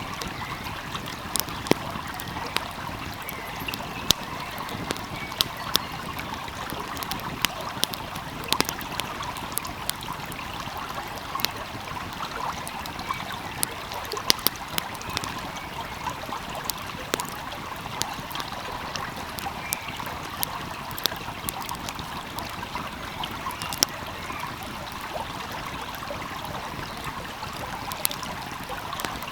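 Wood fire crackling, with sharp irregular pops, over the steady rush of a flowing stream.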